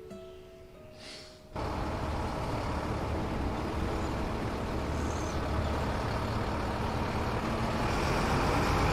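The end of a music cue fades out. About a second and a half in, the steady rumbling of a heavy truck's engine running cuts in suddenly and holds.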